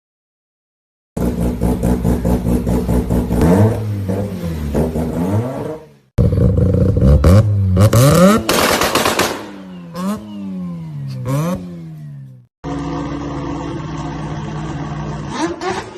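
A rotary engine in a car being revved, its pitch climbing and dropping with each blip of the throttle, in three separate stretches that start and stop abruptly; the sound begins about a second in.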